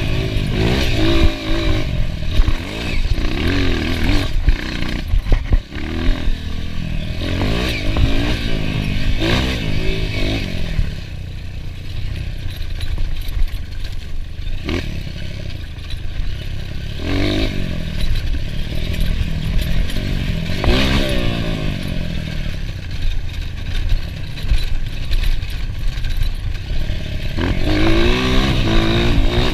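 Enduro dirt bike engine being ridden hard, revving up and down over and over as the rider works the throttle through the gears, with clattering and knocks from the bike over rough ground; it eases off for a few seconds midway, then revs hard again near the end.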